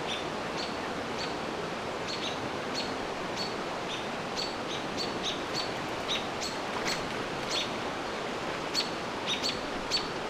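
Small songbirds giving repeated sharp chip calls, a few a second at uneven spacing, over a steady hiss. These are mobbing alarm calls aimed at a barred owl.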